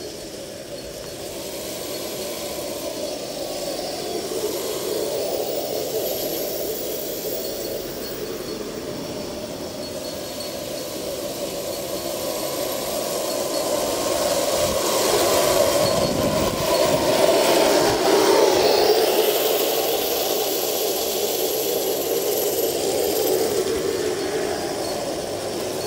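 Electric drive motors and gearboxes of an RC Leopard tank running, with a whine that shifts in pitch and a rattle from the running gear. The sound grows louder in the middle, then eases off near the end.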